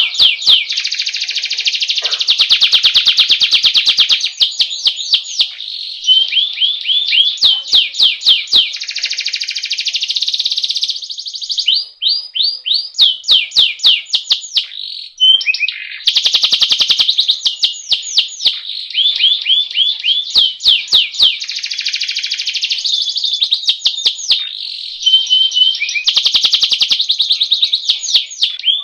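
Domestic canary singing a long, near-continuous rolling song: high-pitched runs of fast repeated sweeping notes that run into dense trills, with only brief pauses, around 12 and 15 seconds in.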